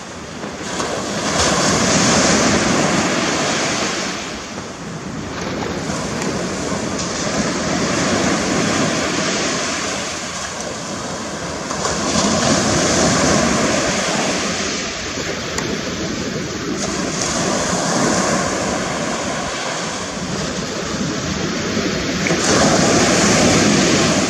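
Gulf of Mexico surf breaking and washing up the beach in slow surges, each swelling and fading over a few seconds, with some wind on the microphone.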